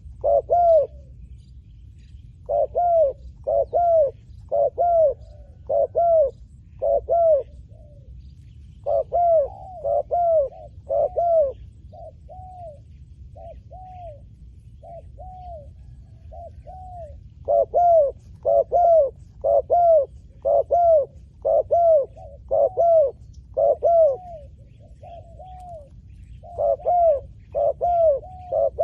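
Spotted dove cooing: runs of short, repeated coos in phrases with brief pauses between, some phrases softer than others.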